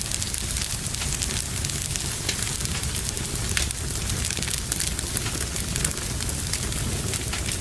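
Wood fire burning in a fireplace, crackling with many small, sharp pops scattered over a steady low rumble of the flames.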